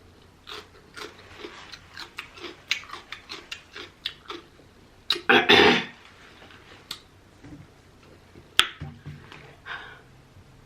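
Close-up mouth sounds of someone chewing rotisserie chicken: quick smacking clicks several a second, a louder noisy burst about five seconds in, then sparser clicks with one sharp snap near the end.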